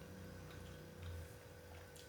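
A few faint clicks and a short low hum: the quiet mouth sounds of someone eating.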